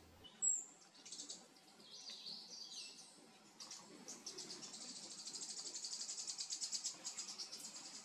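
Faint, high-pitched calls of small tropical forest birds: a sharp chip about half a second in, a few buzzy notes, then a rapid ticking trill from about halfway that grows louder.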